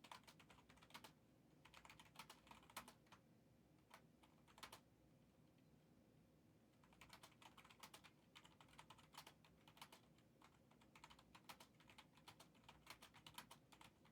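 Faint typing on a computer keyboard: several short bursts of rapid key clicks with pauses between them.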